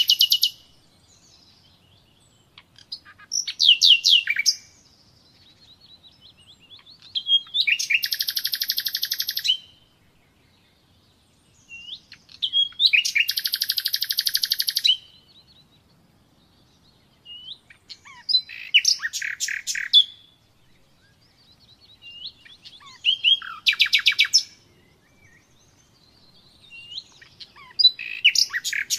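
Common nightingale singing: six phrases a few seconds apart, several of them fast rolls of rapidly repeated notes lasting two or three seconds, with quiet pauses between.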